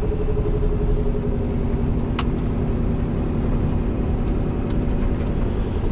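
Cab interior sound of a Scania R620's 16-litre V8 diesel running steadily under way, a constant low drone with road noise. A single sharp click about two seconds in.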